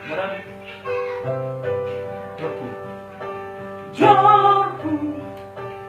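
A Batak song: singing over plucked guitar accompaniment, with a louder sung phrase coming in about four seconds in.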